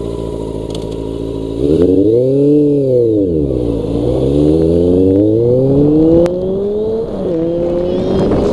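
Honda CB400 motorcycle engine idling steadily, then revved once with pitch rising and falling. It then pulls away, accelerating with a rising pitch, and the pitch drops briefly at an upshift about seven seconds in before climbing again.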